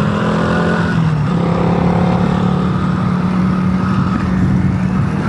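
Motorcycle engine running at a steady speed with a continuous low hum under a layer of rushing noise.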